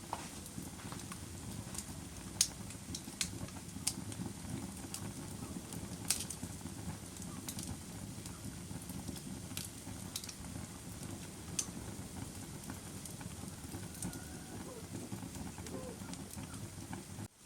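Fire crackling: irregular sharp pops and snaps over a steady low rumble of burning, with a few louder pops.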